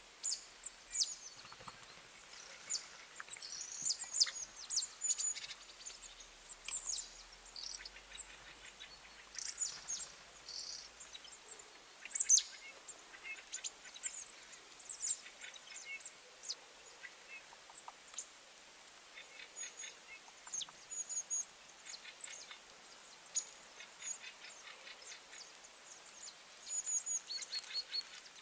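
Small birds chirping: many short, high calls and quick falling notes scattered irregularly, with occasional rapid trills.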